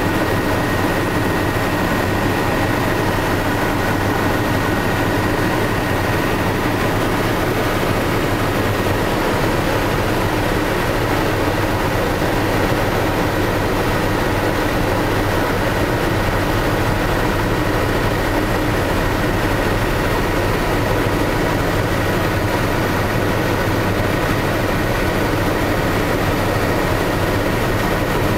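Tour helicopter running in flight: a steady, loud drone of engine and rotor with a thin, steady high whine over it.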